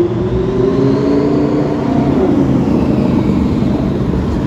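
A car's engine driving past, its pitch rising and then fading about halfway through, over a steady low rumble of traffic.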